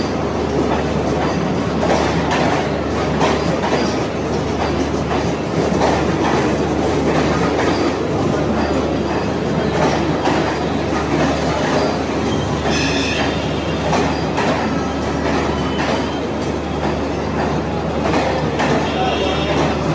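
Train running along the track: a steady rumble of wagons with wheels clacking over rail joints. A brief high wheel squeal comes about thirteen seconds in.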